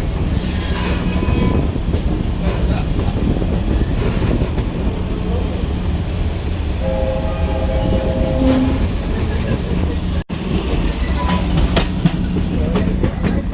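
A moving train with a diesel locomotive makes a steady low rumble. About seven seconds in, the locomotive's horn sounds once, a chord of steady tones lasting under two seconds.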